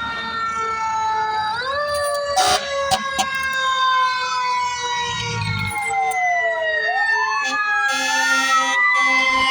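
Several fire truck sirens wailing at once, their tones rising and falling out of step with one another. A few short sharp sounds come about two and a half to three seconds in.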